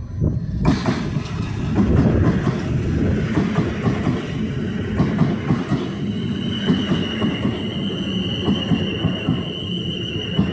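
Train running past at close range, its wheels clattering and knocking over the track, with a steady high wheel squeal joining about six seconds in.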